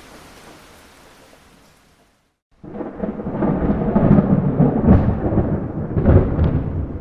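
Steady rain hiss fades away, and after a brief silence a roll of thunder breaks in suddenly about two and a half seconds in, rumbling loudly for several seconds and easing off near the end.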